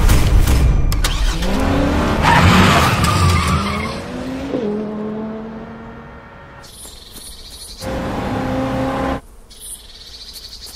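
Car engine revving with tyre-skid noise in the first few seconds, its pitch dropping and then holding steady. After that the sound cuts in and out abruptly, alternating with insects chirping.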